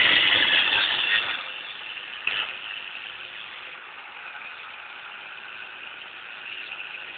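A small power tool grinding metal: loud for the first second or so, then running more lightly, with a brief louder scrape about two seconds in.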